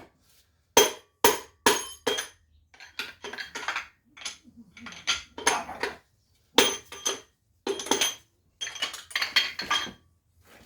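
Repeated sharp metal-on-metal taps with a ringing tone, first singly and then in irregular clusters of quick strikes. A hammer is being used on the parts of an RB20DET engine during teardown.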